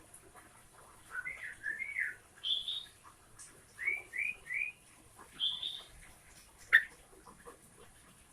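Yellow-vented bulbul (trucukan) singing: short phrases of bubbly, liquid whistled notes, a run of three quick notes about four seconds in, with brief pauses between phrases.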